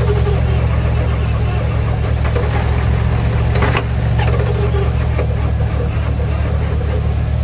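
Engine running steadily with a deep, even drone.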